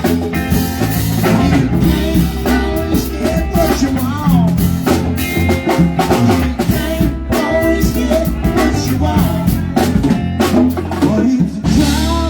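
Live rock band playing a song, with a drum kit keeping a steady beat under sustained pitched instruments.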